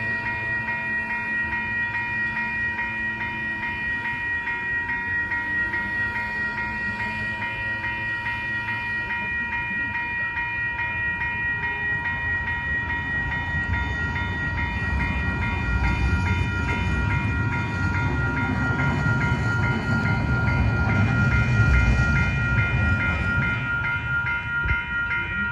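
Grade crossing warning bells ringing in a steady, fast repeating pattern while a VTA light rail train approaches and passes over the crossing. The train's rumble on the rails grows from about halfway through and is loudest near the end.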